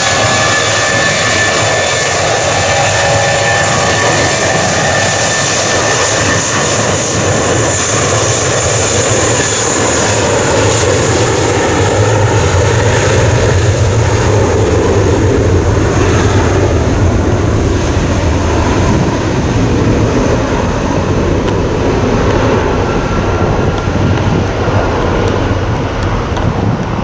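Jet airliner engines at takeoff power: a steady high whine over a deep roar. The roar builds to its loudest about halfway through, then fades as the aircraft moves off.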